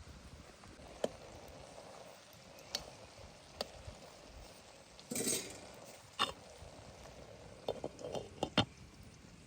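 Scattered light clinks and knocks of cooking utensils against a pot, with a brief rustling scrape about five seconds in and a quick run of clinks near the end.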